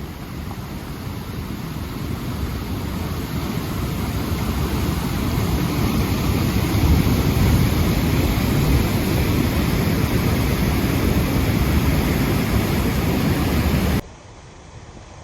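Rushing of the Sochi River in flood after heavy rain: a steady noisy rush of fast, swollen water that grows louder over the first few seconds. Near the end it drops off abruptly to a much quieter rush.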